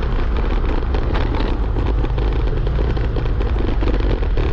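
Steady riding noise from a motor scooter under way: the engine drone mixed with rushing air.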